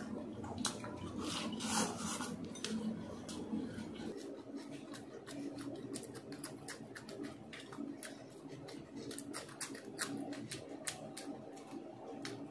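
Chewing of a fried aloo samosa and a green chilli, heard as many small, irregular crisp crunching clicks.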